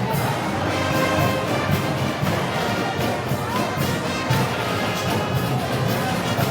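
A festival brass band playing live, with brass over a steady beat of drums and cymbals.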